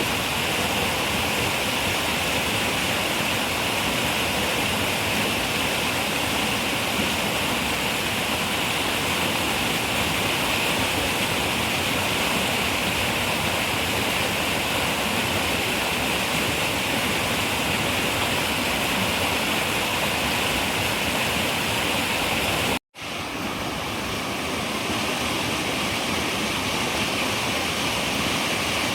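Running river water, a steady rushing and gurgling flow. About three-quarters of the way through, the sound cuts out for a moment and then fades back in over a few seconds.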